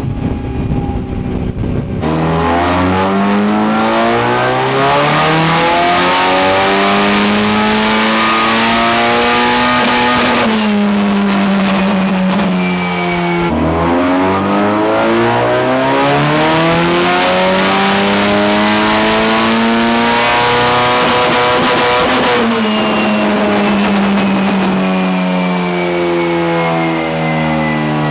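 Turbocharged SR20DET four-cylinder engine in an AE86 making full-throttle pulls on a chassis dyno: the engine note climbs steadily for about eight seconds, drops away as the throttle is lifted, then climbs again in a second pull, with a third starting near the end. The pulls are boost-control tuning runs after a new turbo rear exhaust housing.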